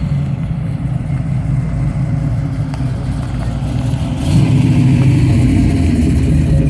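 Small Honda 2.2 hp single-cylinder petrol engine of a half-scale Porsche 911 Junior running steadily. About four seconds in it gets louder, as if given more throttle.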